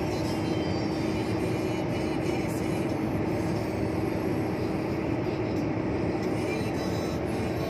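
A vehicle driving at steady speed: continuous engine and tyre noise with a constant steady hum.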